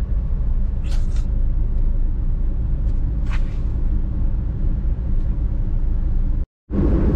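Car engine idling, a steady low rumble heard inside the cabin while stopped in traffic. Brief hissing noises come about one second and about three seconds in, and the sound drops out for a moment near the end.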